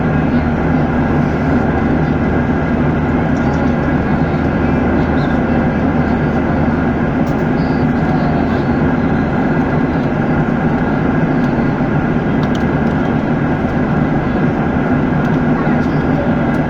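Cabin noise of an airliner in flight: a loud, steady rush of engines and airflow with an even hum underneath.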